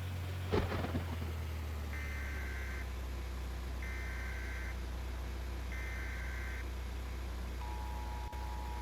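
Emergency Alert System signal: three one-second bursts of warbling two-tone header data about two seconds apart, followed near the end by the steady two-tone attention tone. A low vehicle hum runs underneath, with a single knock about half a second in.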